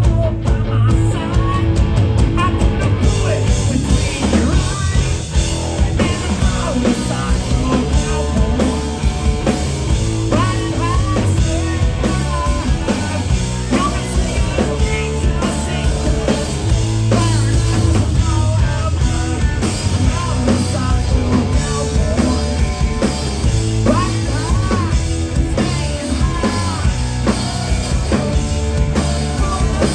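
Rock band playing live: drum kit, electric guitars and bass going steadily.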